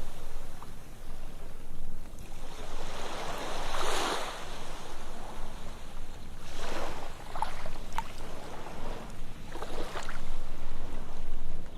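Ocean surf washing onto a sandy beach, the hiss of the waves swelling and fading every few seconds, with a few small splashes and ticks.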